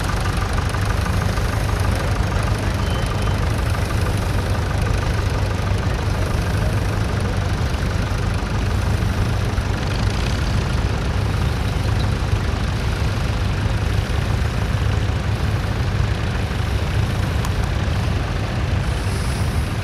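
Vintage tractor engine running steadily, with an even drone that stays the same throughout.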